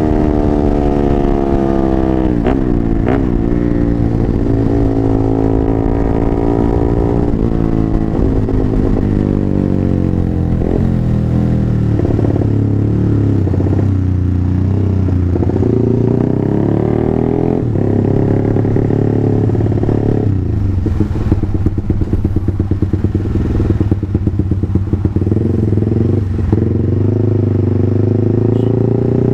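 Single-cylinder four-stroke engine of a Honda CBR150R bored up to 180cc, running loud through a 3Tech EvoX X1GPR racing exhaust. Its pitch rises and falls repeatedly as it is revved and eased off, and it turns choppy and uneven for a few seconds past the middle.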